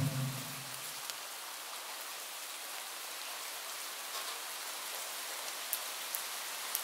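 Steady rain falling, an even hiss with a few sharper drop taps near the end. A chanting voice fades out in the first second.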